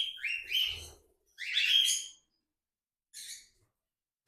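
Pet parrots chirping: a few short chirps, a louder call about a second and a half in, and a faint chirp near the end.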